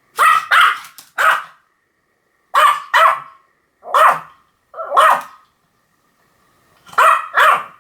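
Pomeranian barking: about nine short, sharp, high-pitched barks in uneven bursts of one to three, with brief silences between.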